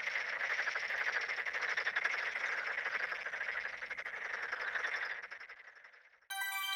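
Frogs croaking in a fast, continuous run of pulses that fades out about five to six seconds in. Near the end a bell-like musical chime strikes and rings on.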